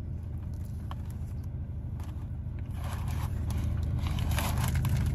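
Steady low hum of a parked car's engine idling, heard inside the cabin. From about three seconds in, close-up crackly chewing and eating noises as a sandwich is eaten.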